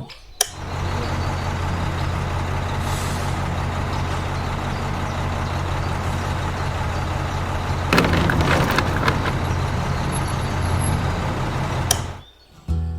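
A small motor running steadily with a low hum, with louder rattling about eight seconds in; it stops shortly before the end.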